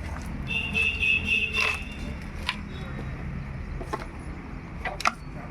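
Ashok Leyland truck's engine running with a steady low rumble. A high steady tone sounds for about a second, starting about half a second in, and several sharp clicks and knocks follow.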